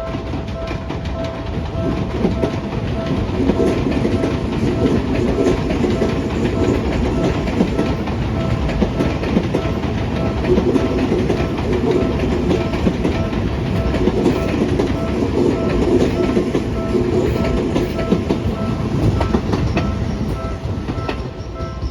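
Seibu 20000 series electric train passing over a level crossing: the wheels rumble and clatter over the rail joints, growing louder and easing off several times as the cars go by. Through it the crossing's warning bell keeps ringing in an even, repeating pulse.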